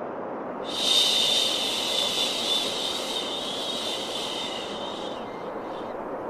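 A long, drawn-out "shhh" shushing sound, the kind used to soothe a baby, starting about a second in and lasting about four and a half seconds over a steady low white-noise hiss.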